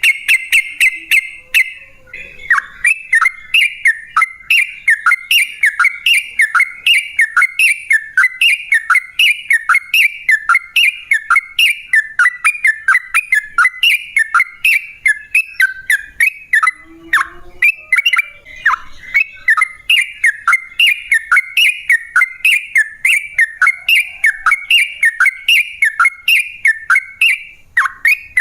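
Yellow-vented bulbul (trucukan) calling without pause: a fast trill that ends about two seconds in, then a long run of short, bubbling, downward-dropping notes repeated several times a second.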